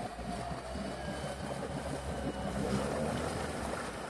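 Off-road 4x4's engine running under load as the vehicle struggles in deep water, its wheels churning and splashing the water. The engine and the splashing grow louder about two and a half seconds in.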